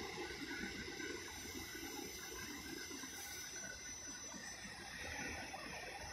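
SEPTA Silverliner IV electric multiple-unit commuter train passing on the rails: a steady rumble and hiss of wheels on track.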